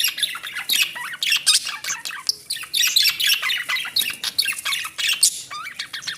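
Several budgerigars chattering and squawking together, a dense run of rapid, overlapping calls with no break.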